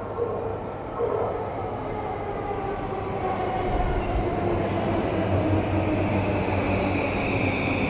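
Electric commuter train pulling into the platform. Its motor whine falls in pitch as it brakes, over a steady low hum that slowly gets louder.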